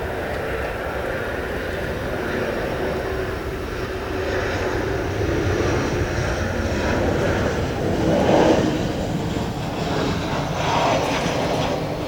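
Jet engines of a Boeing 737-800 landing, a steady noise with a low hum that swells louder in the second half.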